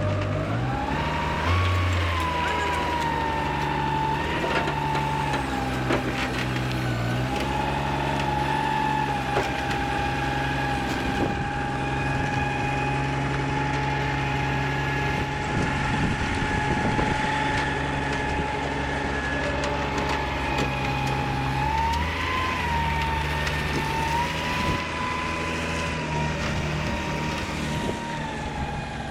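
A machine running steadily with a high whine that dips and recovers in pitch a few times, over a low hum.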